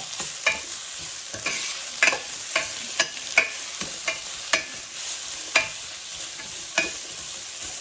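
Sliced onions sizzling in hot coconut oil in a pan as they are sautéed, with a stirring utensil scraping and knocking against the pan about once a second.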